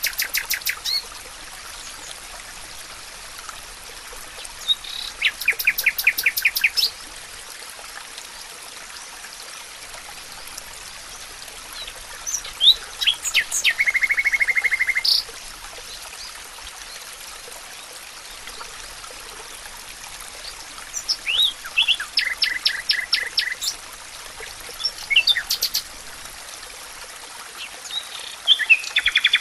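Songbirds singing in a forest: short phrases of rapid repeated notes, one to three seconds long, every few seconds. One phrase in the middle ends in a long even trill. A steady hiss runs underneath throughout.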